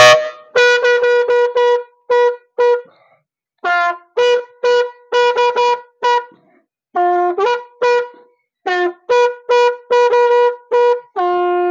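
Papaya leaf-stalk pipe blown like a horn, a quick run of short trumpet-like toots mostly on one pitch with dips to a lower note, ending on a longer held low note.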